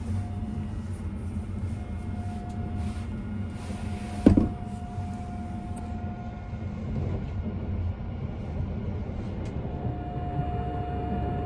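Steady low rumble of a Tobu Spacia limited express train running, heard from inside the car, with one short, loud knock about four seconds in.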